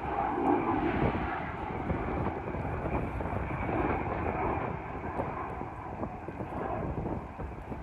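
Aircraft engine noise: a steady rumble that eases slightly near the end.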